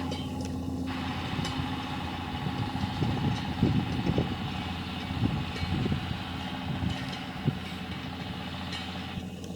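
John Deere tractor engine running steadily under plowing work, with irregular clanks and knocks from about three to six seconds in and a single sharp knock near the end.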